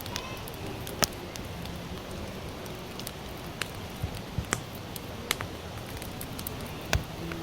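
Campfire of sawtooth oak (kunugi) logs crackling: scattered sharp pops, about eight of them, the loudest about a second in and near the end, over a steady hiss.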